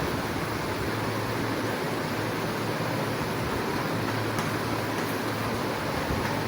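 Steady background hiss with a low hum underneath: room noise, with no other event.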